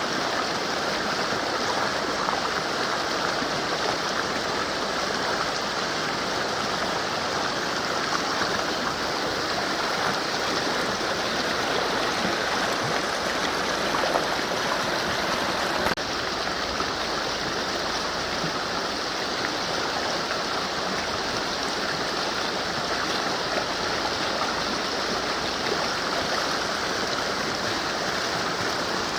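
Mountain river flowing, a steady rushing of water, a little quieter from just over halfway through.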